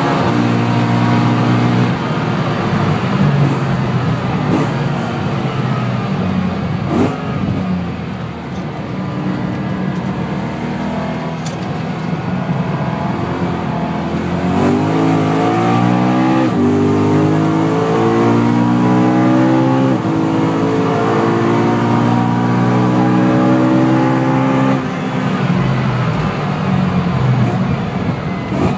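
BMW M3 engine heard from inside the cabin at track speed, with tyre and wind noise under it. The engine note falls as the driver comes off the throttle in the first seconds, then climbs hard through the revs, drops sharply at an upshift about halfway through, climbs again and falls off near the end.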